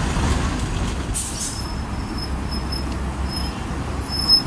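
Low, steady rumble of a transit vehicle, with a short burst of air hiss about a second in and a faint, high-pitched squeal that comes and goes.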